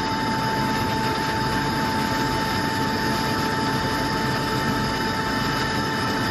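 Onsite PSA nitrogen generation plant machinery running steadily: a constant drone with a steady high whine over it.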